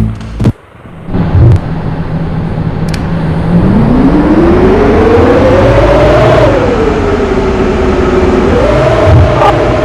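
A vehicle engine revving: its pitch holds low, climbs steadily for a few seconds, drops back, then jumps up again and holds near the end.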